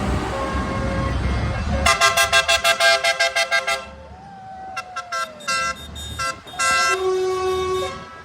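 Passing tractors sounding their horns: engine rumble, then a fast string of about a dozen horn beeps, followed by several separate toots and one longer held blast near the end.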